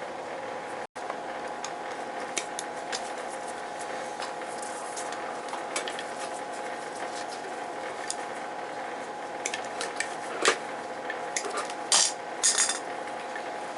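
Hand tools and small metal parts clinking and ticking during wiring work, with a few louder clinks late on, over a steady hum.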